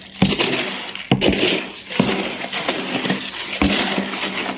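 Dry cat kibble rattling and clattering as two kinds are mixed together in a container, with several sharper knocks along the way.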